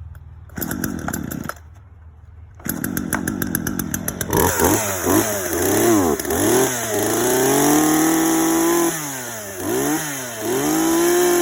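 Two-stroke chainsaw pull-started from cold after long disuse: two pulls of the starter cord, and it catches on the second, about four seconds in. It then revs up and down several times, holding high revs twice.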